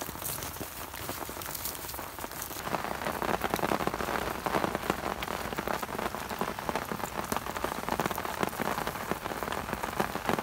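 Steady rain falling on a surface, a dense hiss of many fine drop ticks that grows louder about three seconds in.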